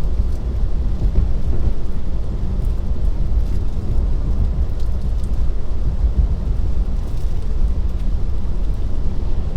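Heavy rain on a moving car, with its tyres running on a flooded road: a steady low rumble with a faint patter of drops, heard from inside the car.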